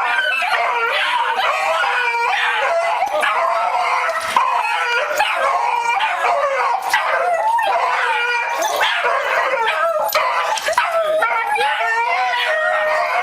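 A dog whining, yipping and giving howl-like cries nonstop in excitement as it greets its returning owner.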